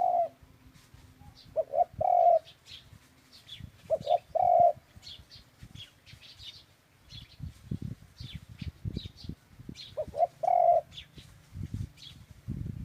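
A dove cooing in phrases of two short coos and a longer final coo. Three full phrases, with a long pause before the last, while small birds chirp faintly in the background.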